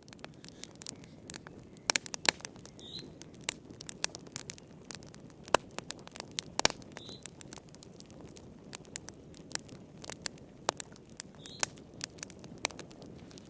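Wood fire burning in a fireplace: irregular sharp crackles and pops, a few louder snaps among them, over a steady low hiss of the flames.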